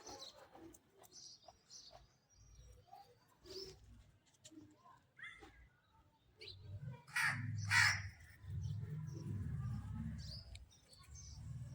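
Birds chirping in short scattered notes, with two loud, harsh calls close together about seven seconds in, over a low rumble in the second half.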